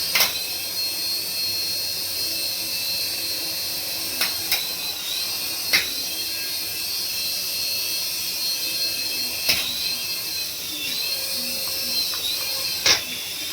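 A remote-control toy's small electric motor runs with a steady high whine, dipping briefly in pitch a few times. About five sharp clicks come through it, the loudest near the end, and the whine cuts off at the very end.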